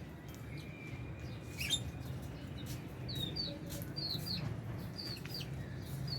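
Lovebirds chirping: short, high chirps that come thicker from about halfway through, over a steady low rumble.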